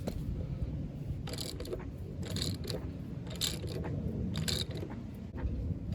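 A hand ratchet turning the crank bolt to draw a new ATI super damper onto a K24 crankshaft, in about four scraping strokes roughly a second apart.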